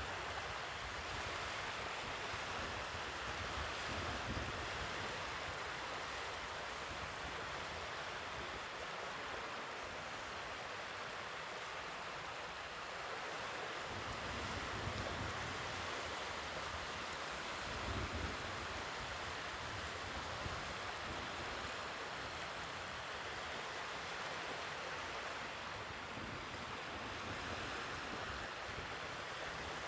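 Sea waves washing onto the shore: a steady hiss of surf with a few low rumbles as waves break.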